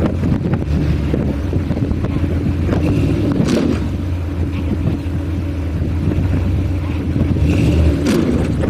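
Heavy vehicle engine running steadily at a low drone under load, with a couple of brief knocks about three and a half seconds in and near the end.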